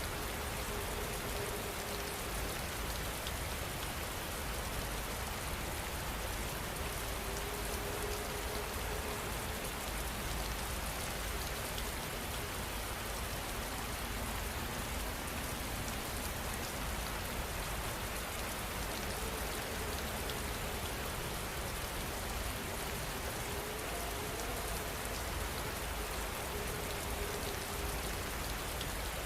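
Steady heavy rain falling, an even, unbroken hiss of many drops on surfaces.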